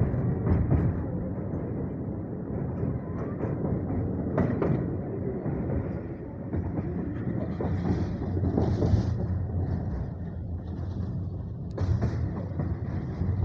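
Passenger train running at speed, heard from inside a coach: steady wheel-on-rail noise with a few sharp clacks as the wheels cross rail joints.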